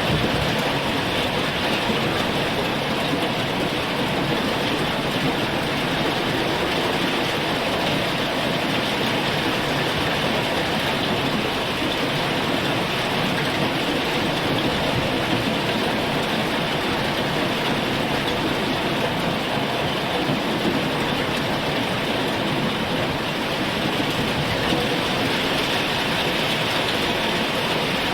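Heavy rain falling in a dense, even downpour that holds steady without a break.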